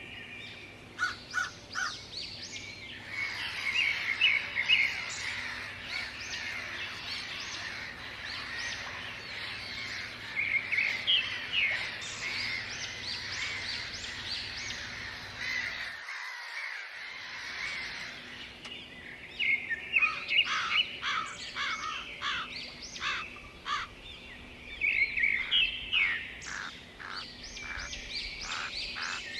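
Several birds chirping and calling together, a dense chorus of short high notes and trills, with runs of quick repeated notes near the end.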